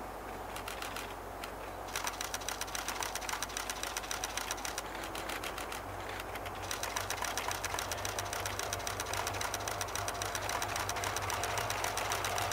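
A rapid, even ticking chatter that pauses briefly in the middle, over a low hum that grows in the second half as the DE10 diesel locomotive draws near.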